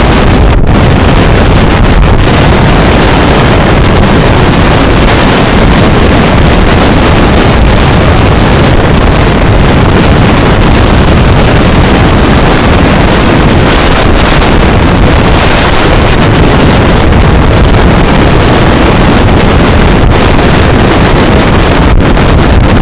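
Strong storm wind blasting the microphone: a steady, very loud rush with no let-up, loud enough to swamp the recording.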